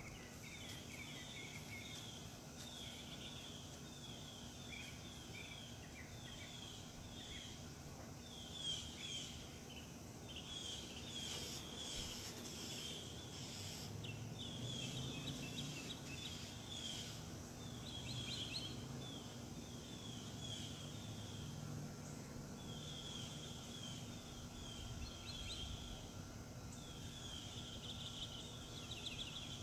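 Birds chirping, short high notes repeated in quick runs with brief pauses between, over a faint steady hum.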